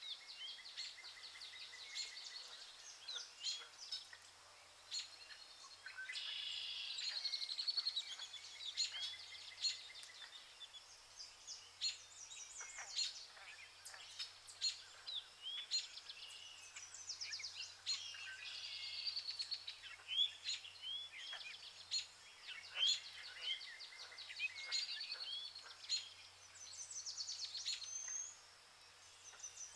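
Birdsong from several small birds chirping and trilling, with overlapping short calls and quick trills throughout.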